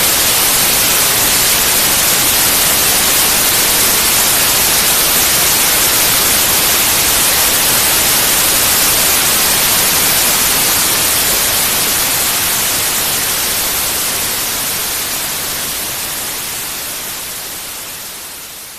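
Steady electronic white noise, an even hiss across the whole range. It fades out gradually over the last several seconds.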